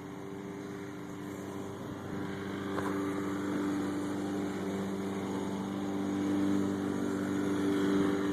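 Riding lawnmower engine running steadily, growing gradually louder as the mower draws nearer.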